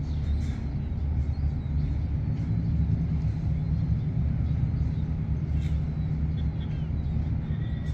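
Ship's engine running with a steady low drone that keeps an even pace throughout.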